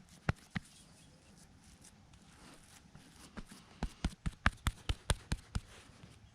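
Sharp knocks: two near the start, then a quick, even run of about four a second in the second half.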